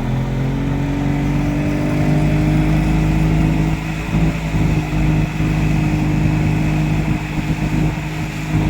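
Motorboat engine running, its pitch rising over the first couple of seconds as it speeds up, then holding steady.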